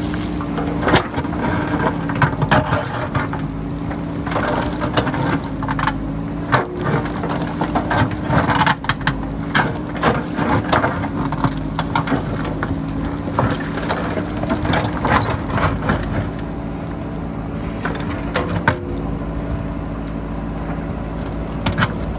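JCB backhoe loader's diesel engine running steadily under load while its bucket digs and scrapes the rocky hillside, with repeated knocks and rattles of breaking rock and stones. Wind rumbles on the microphone.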